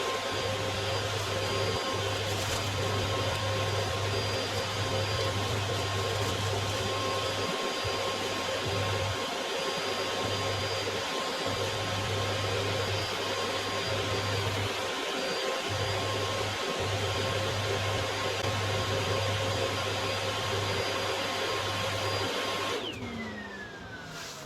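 Vacuum cleaner running steadily with a constant whine, switched off near the end and spinning down with a falling tone.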